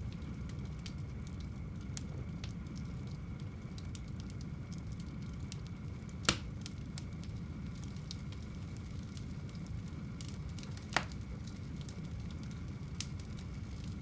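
Fire burning in a home fireplace: a steady low rumble of flames with frequent faint crackles and two loud sharp pops, about six seconds and eleven seconds in.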